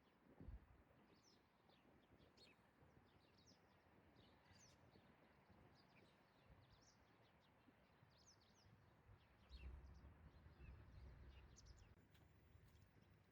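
Faint birdsong: many short high chirps scattered throughout, over a quiet steady background hiss. A brief low thump comes about half a second in, and a low rumble swells for a couple of seconds near the end.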